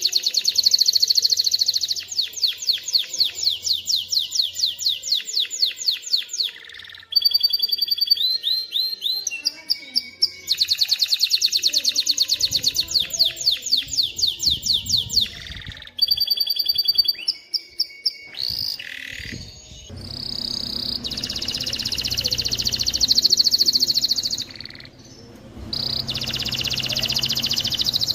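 Male domestic canary singing: fast trills of rapidly repeated high notes, changing to a new trill every few seconds, with a short break about seven seconds in and another brief dip near the end.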